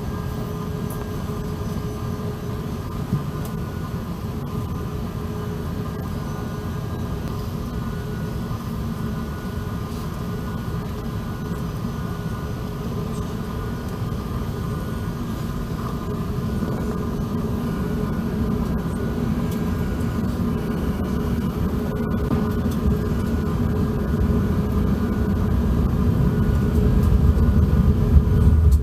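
Cabin noise inside an Airbus A380: a steady low rumble with a faint hum from its Rolls-Royce Trent 970 engines, growing gradually louder over the second half.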